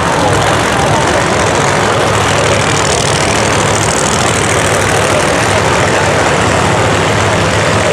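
Supercharged drag-racing engine idling steadily, with a loud, even exhaust note and no revving.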